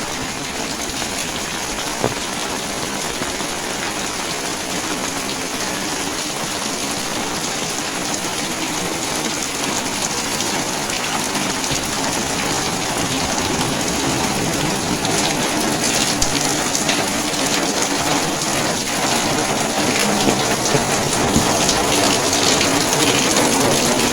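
Steady rain falling and splashing on surfaces, growing somewhat louder toward the end.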